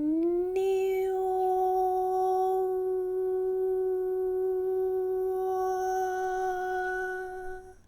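A woman's long sustained vocal tone, a toning hum, that slides up a little at the start and is then held on one steady note for about seven seconds before fading out near the end.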